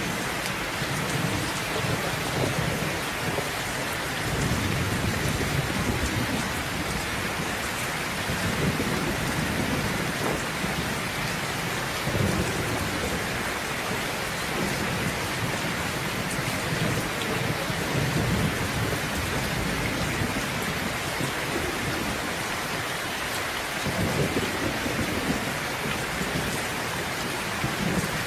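Steady heavy rain falling, with low rolling thunder rumbling again and again underneath it.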